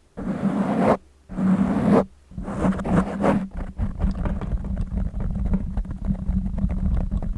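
Fingers scratching and rubbing directly on a microphone. It starts with several separate swishing strokes, then about three and a half seconds in turns to quick, dense crackly scratching with a deep rumble.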